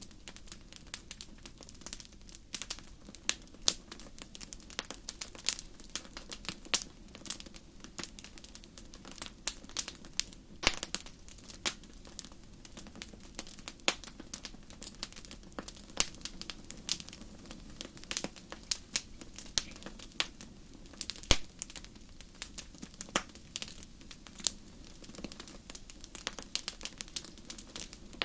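Fireplace fire crackling: irregular sharp pops and snaps, often several a second, over a low steady rumble of the flames.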